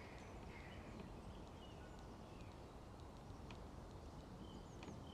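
Quiet outdoor ambience with faint, scattered short bird chirps and a few soft clicks.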